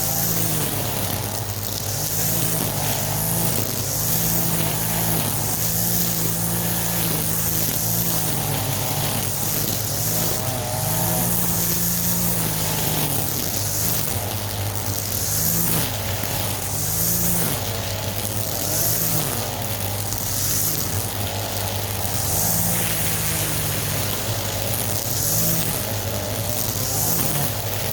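Walk-behind lawn mower engine running steadily while cutting grass, its pitch stepping up and down every second or two.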